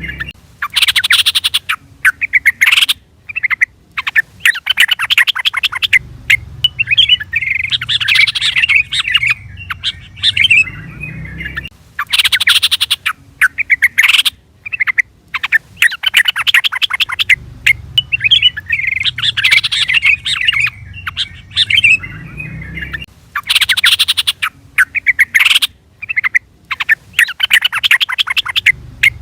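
Yellow-vented bulbul (trucukan) calling in quick bubbly chattering phrases, broken by short gaps, with the same sequence repeating about every eleven seconds.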